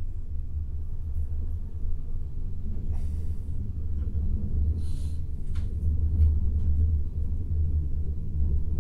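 Steady low rumble of a passenger train coach running on the rails, heard from inside a sleeper compartment as the train comes into a station, with a couple of brief hisses about three and five seconds in.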